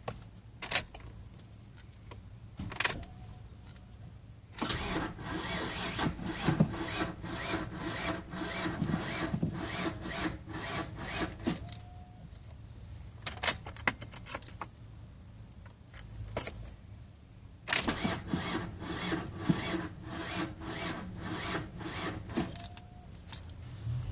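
Starter cranking the 1991 Mercury Grand Marquis's 5.0 L V8 in two runs of several seconds each, with an even chugging rhythm and a pause between them, without the engine catching: a hard cold start. A few single clicks fall in the pauses.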